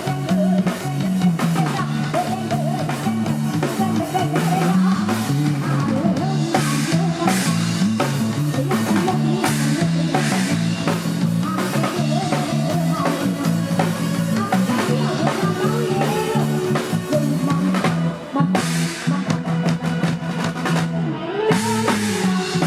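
Live band music with drum kit, guitar and a repeating bass line, played at a steady beat.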